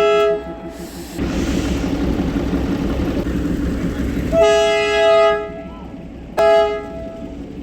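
Darjeeling Himalayan Railway toy train horn: a toot ending just after the start, a longer blast of about a second some four seconds in, and a short toot near the end, over steady station background noise.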